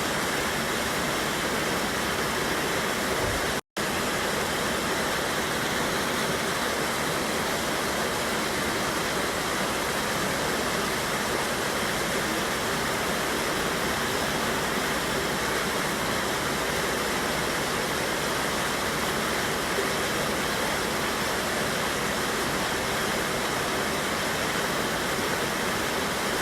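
River water rushing steadily over a waterfall on a mountain river. It cuts out for an instant about four seconds in.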